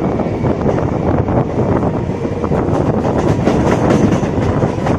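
Moving Indian suburban electric local train heard from its open doorway: a loud, steady rumble of wheels running on the rails, with irregular clattering clicks throughout, more of them in the second half.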